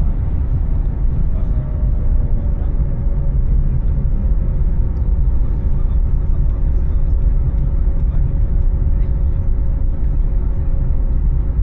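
Airliner cabin noise after landing: a steady low rumble from the taxiing aircraft, with a faint steady engine hum over it.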